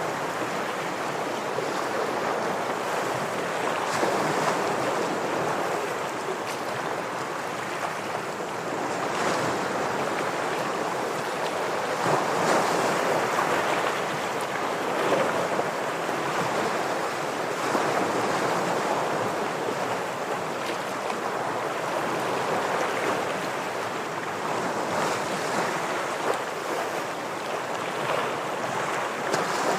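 Ocean surf washing and breaking against shoreline rocks: a steady rushing wash that swells and eases every few seconds, with small splashes.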